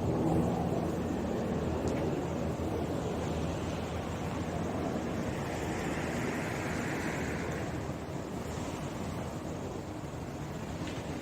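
Distant UH-60 Black Hawk helicopter's rotor and engine noise, a low steady rumble slowly fading as it moves away.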